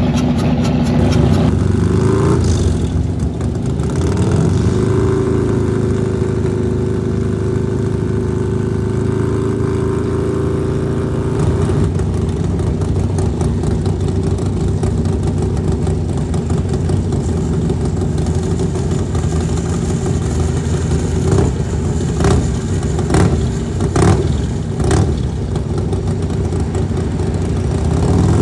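Racing motorcycle engines at high revs, one rising in pitch as it accelerates about two seconds in and another near the end, with a steady engine drone between. A few sharp cracks come about three-quarters of the way through.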